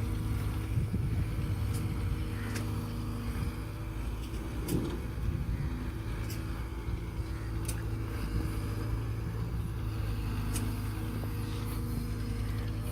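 Tractor diesel engine running steadily at a constant speed, with a few sharp clicks or rattles scattered through it.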